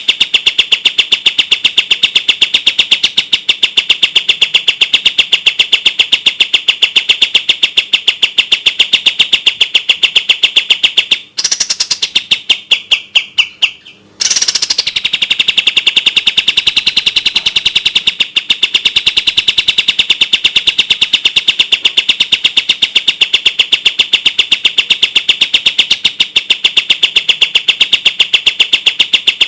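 Kapas tembak bird singing a fast, dense trill of rapidly repeated high notes. The trill breaks off about 11 seconds in, a short falling note is heard, and the trill resumes about three seconds later.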